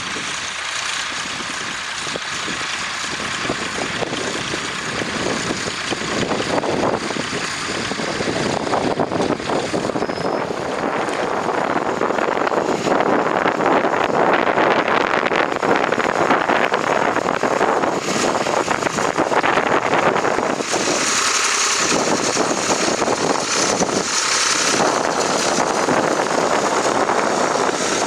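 Massey Ferguson 135 tractor engine running steadily, growing louder over the first half or so.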